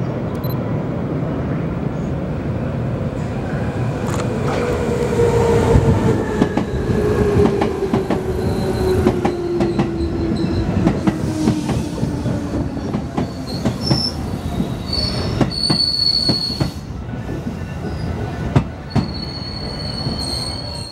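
JR West 221 series electric train pulling in round a curve and passing close by. Its motor whine falls steadily in pitch as it slows, and its wheels click over the rail joints. High squealing comes in during the last several seconds as it slows further.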